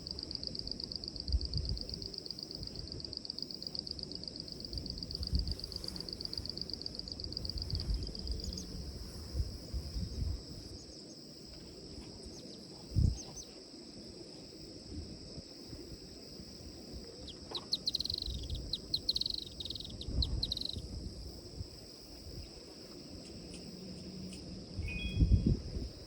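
A high, steady insect drone, rapidly pulsing for the first third and then smooth, with a short run of bird chirps about two-thirds through. Low thumps and rumbles come and go, the sharpest about halfway and near the end.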